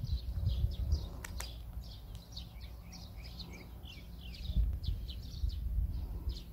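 Small birds chirping: a quick string of short, falling chirps repeating over a low rumble. Two sharp clicks come about a second in.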